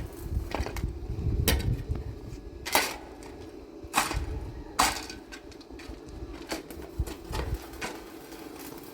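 Irregular knocks and clicks, a few of them sharper and louder, over a steady low hum.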